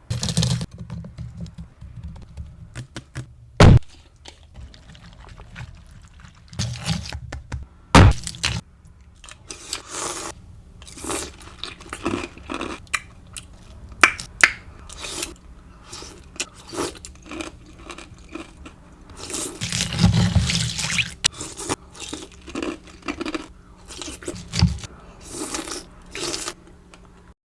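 Close-miked eating of a bowl of fruit in coconut water: a spoon scraping and knocking against the bowl, with wet chewing and crunching of berries. Two sharp knocks stand out about four and eight seconds in, and the chewing grows denser about twenty seconds in.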